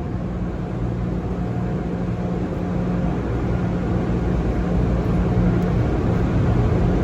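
Automatic car wash machinery running, heard from inside the car as a steady low rumble and hum that slowly grows louder.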